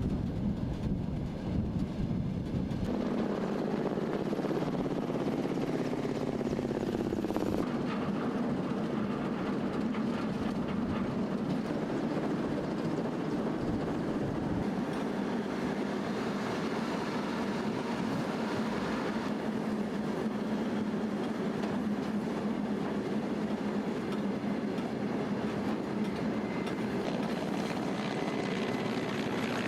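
A train running along the track, its steady rumble and rail noise continuing throughout and shifting abruptly a couple of times.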